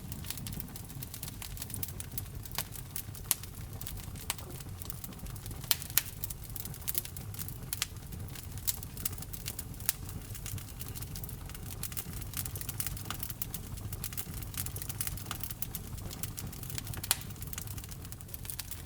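Wood fire burning in a fireplace: a steady low rumble of the flames with irregular crackles and sharp pops, a few louder pops standing out.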